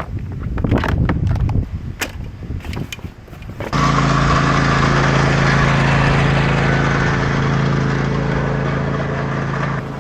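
Scattered clicks and knocks of things being handled, then, about four seconds in, a sudden steady drone of a truck engine running with road noise, which cuts off abruptly just before the end.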